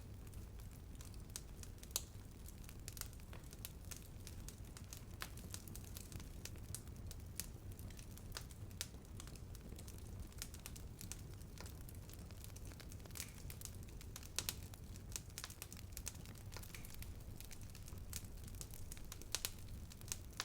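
Bonfire burning with a steady low rumble and frequent sharp, irregular crackles and pops of burning wood.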